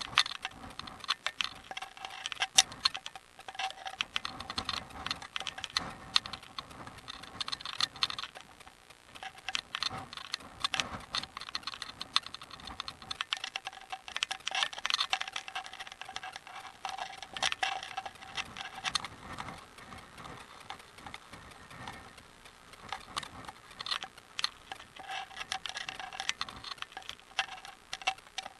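Bicycle ticking and rattling as it rolls along the road: a dense, uneven run of small clicks that swells and fades every few seconds, over a faint steady tone.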